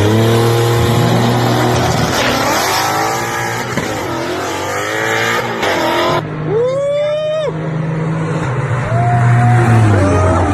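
Car engine idling and revving, its pitch rising and falling several times. The sound changes abruptly about six seconds in, then shows a sharp rise and a held rev.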